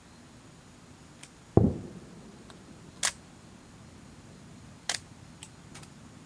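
A firework shell bursting overhead with one deep boom about one and a half seconds in that dies away over about half a second. Two sharp clicks follow, about three and five seconds in.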